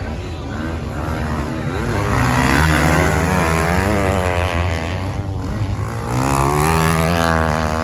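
Racing engines of off-road machines revving up and down as they pass, the pitch rising and falling with the throttle. The sound swells about two and a half seconds in and again near the end.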